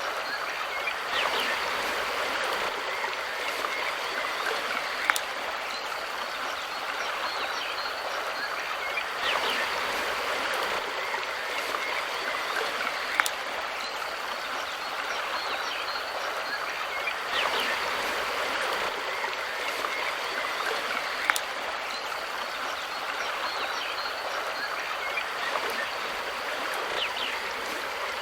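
Mountain river flowing over stones: a steady rushing and babbling of water, with a short sharp click three times, about every eight seconds.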